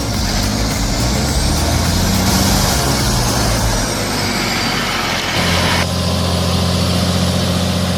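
Heavy diesel log truck engine running hard under load, with a high whine that rises and then falls over the first few seconds. About five and a half seconds in, the sound changes abruptly to a steadier engine drone.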